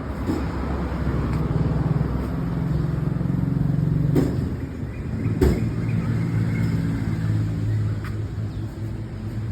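A vehicle engine running with a steady low hum that shifts in pitch about halfway through, with two sharp knocks near the middle.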